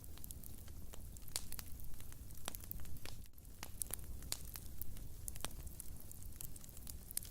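Wood fire burning in a fireplace: a low steady rumble of flames with frequent sharp, irregular crackles and pops.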